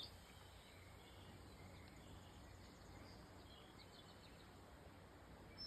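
Faint background hum with a few scattered, faint, short bird chirps.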